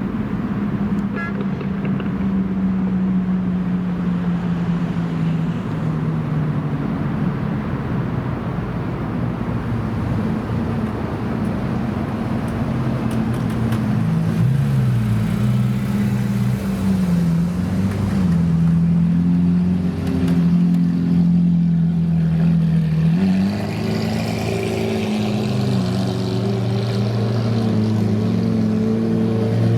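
Car engines running at low revs, a low engine note that wanders and steps in pitch several times as cars idle and move off, with a change in the engine note about two-thirds of the way through.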